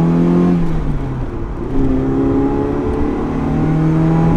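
1985 Ferrari 308's V8 engine accelerating hard. Its pitch climbs, drops about a second in as it shifts up a gear, then climbs again as it pulls through the next gear.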